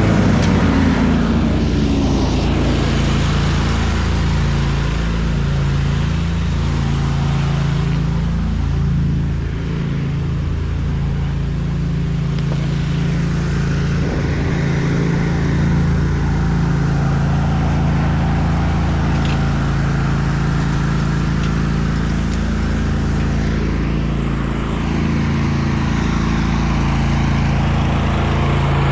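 Wright commercial lawn mower's engine running steadily under mowing load, its pitch and level dipping briefly about nine seconds in and again near twenty-five seconds.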